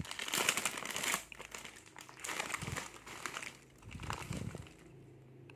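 Plastic snack packet crinkling in irregular bursts as it is handled and pulled open, quieter near the end.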